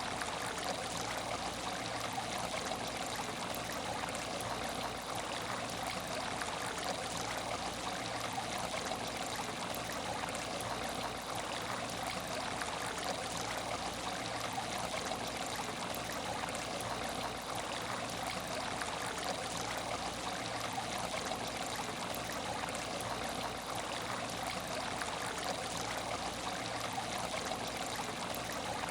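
Steady trickling and splashing of moving water in an aquarium tank, over a faint low steady hum.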